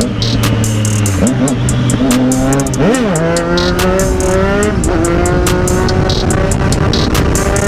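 Three-cylinder sport motorcycle engine under hard acceleration, its pitch climbing through the gears with quick drops at the shifts about a second in, three seconds in and five seconds in. Wind buffets the microphone throughout.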